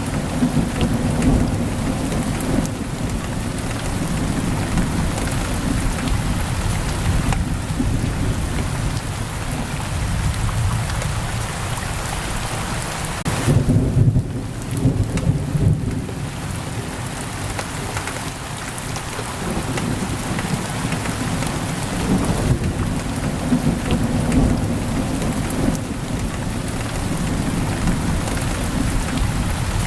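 Heavy rain pouring steadily on a window, with low rolling thunder rumbling underneath that swells loudest about halfway through.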